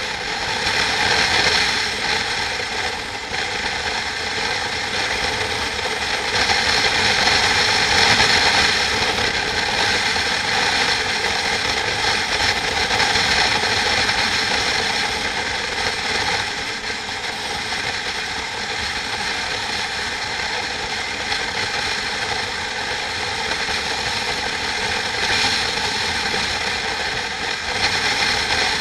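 Steady mechanical running noise, a dense rattling whir that swells a little at times.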